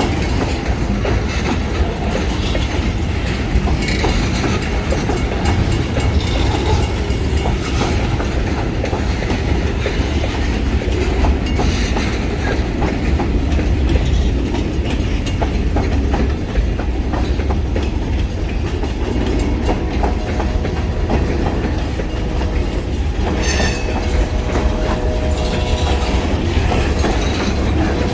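Freight train rolling past at close range: a steady low rumble with wheels clicking over the rail joints, and a faint wheel squeal joining in the last third.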